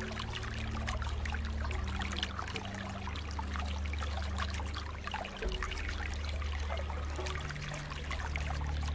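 Flowing water splashing and trickling steadily, with a dense patter of small splashes over a low, steady rumble.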